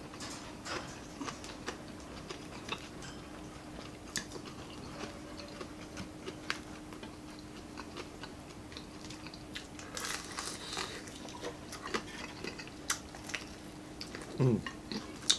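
Close-miked chewing and crunching of crispy fried chicken neck skin, with scattered crisp bites and clicks, busiest about ten seconds in. A faint steady hum runs underneath, and there is a short vocal sound near the end.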